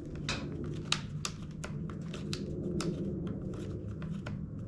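A quick irregular series of light plastic-and-metal clicks and rattles as the Echo PB-265L blower's starter and fan assembly is worked by hand to check that it turns freely, over a steady low hum.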